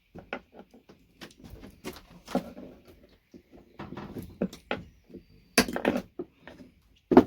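Irregular clicking and clattering as scrap VGA connectors and hand tools are handled, with two louder knocks, one a little past the middle and one at the end.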